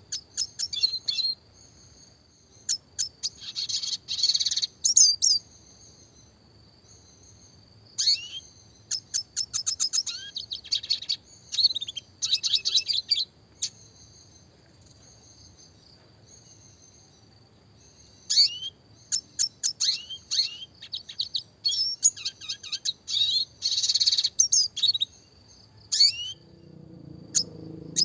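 Red siskin singing: bursts of rapid, high twittering trills and sharp downward-sweeping notes, separated by short pauses, over a thin, steady high note.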